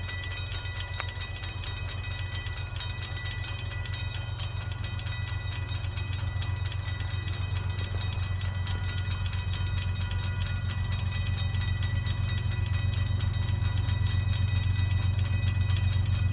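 Freight train with diesel locomotives: a steady low engine drone with a fast pulse in it, growing gradually louder.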